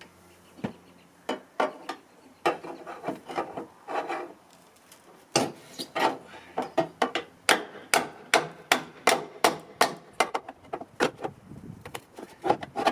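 Repeated blows on a dented car fender to pop the caved-in sheet metal back out. There are a few scattered knocks with some scraping at first, then from about five seconds in a quick, steady run of strikes, about three a second.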